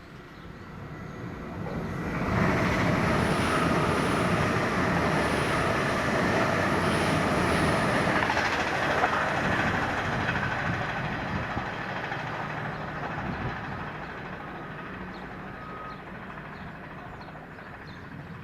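A train passing the lineside: it swells quickly about two seconds in, stays loud for several seconds, then slowly fades away.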